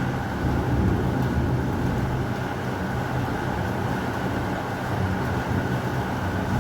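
Heavy rain falling steadily, with a low, continuous rumble of thunder beneath it that swells slightly about a second in.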